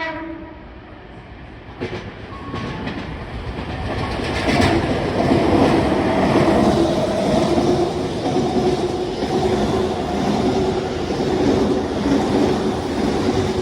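Tobu Tojo Line rapid express train passing through the station without stopping: a brief tone at the start, then wheel and motor noise that builds over a few seconds and stays loud as the carriages go by, with a rhythmic clatter over the rail joints.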